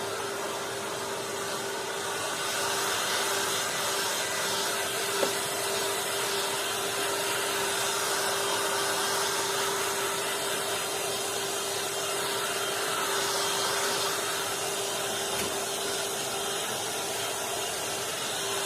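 Electric heat gun running steadily: an even blowing hiss with a constant hum from its fan. It is warming freshly applied windscreen sealant in the cold so it sets.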